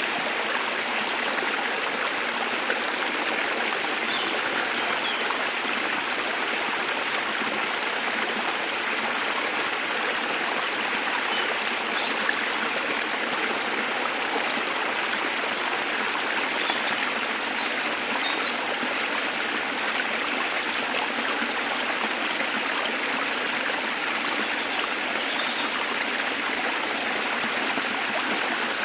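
Waterfall water rushing in a steady, even hiss, with a few faint, brief bird chirps high above it now and then.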